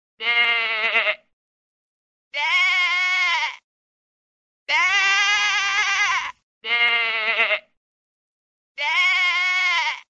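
Sheep bleating: five separate calls of about a second each, some higher-pitched than others, with silence between them.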